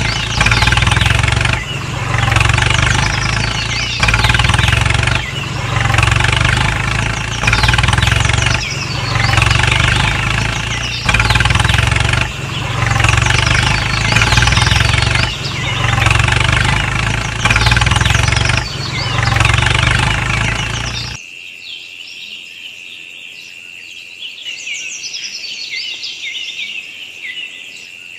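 Tractor engine running under load, swelling in a regular pulse about every second and a bit, then cutting off abruptly about 21 seconds in. Birds chirp over it and carry on afterwards with a steady high insect-like whine.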